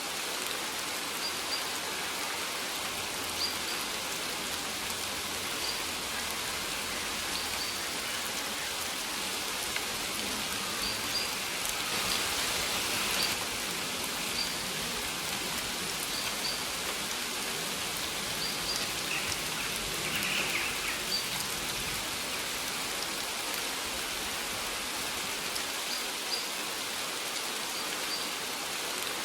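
Steady rain falling on a surface, a dense even patter, with faint short high bird chirps every second or two. The rain swells a little about twelve seconds in and again around twenty seconds.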